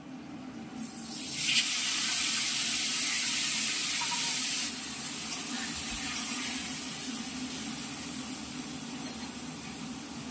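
Chopped tomatoes hitting hot oil in a kadai: a loud sizzle starts about a second in, drops back abruptly a few seconds later and carries on more quietly, slowly fading.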